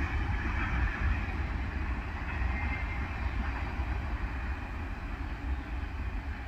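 Norfolk Southern work train rolling away along the track, its wheels rumbling and clattering on the rails as a steady noise that slowly fades.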